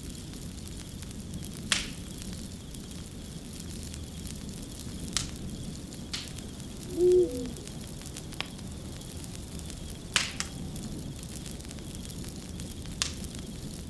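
Wood fire crackling, with sharp pops every second or few over a steady low hiss. About seven seconds in comes one short, louder hoot with a falling tail.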